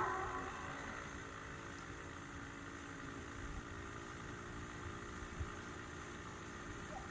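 A motor running steadily: a faint, even hum with several steady tones.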